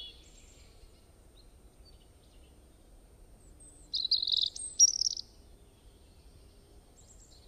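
A bird singing a quick burst of chirps about four seconds in, with a faint low hum underneath.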